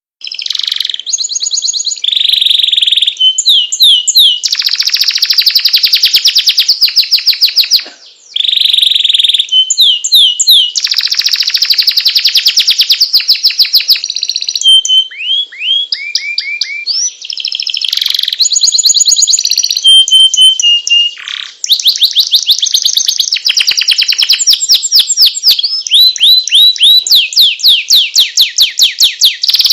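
Domestic canary singing loudly and without let-up: long rapid trills of repeated notes, rolls and short whistled glides, with brief breaks about 8 and 21 seconds in.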